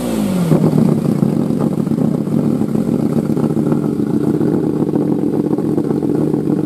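Lamborghini Diablo SE30 Jota's 5.7 V12 on its open exhaust: the revs fall back in the first half second, then the engine idles loud and steady.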